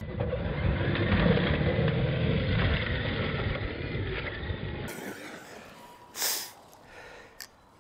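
Arrma Mojave 4S BLX RC truck driving over dirt, its brushless motor and tyres making a dull rumble that slowly fades and cuts off about five seconds in. A short burst of noise follows about a second later.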